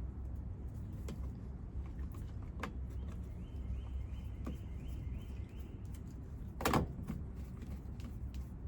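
Light clicks and taps of hands working fuel line onto the nozzles of a small engine's fuel tank, with one brief, louder knock about two-thirds of the way in, over a steady low hum.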